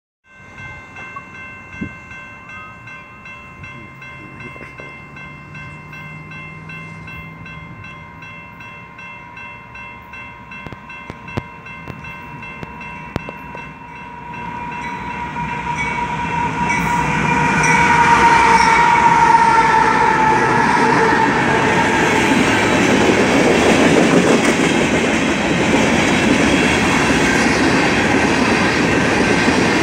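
A freight train's air horn sounds a chord of several steady tones as the diesel locomotives approach, growing louder and dipping slightly in pitch as they pass about two-thirds in. From about halfway the rumble of the locomotives and then the ballast hopper cars rolling by builds and stays loud.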